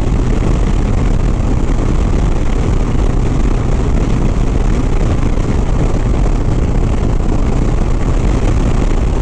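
Harley-Davidson Sport Glide's V-twin engine running steadily at highway cruising speed, mixed with a constant rush of wind over the rider's microphone.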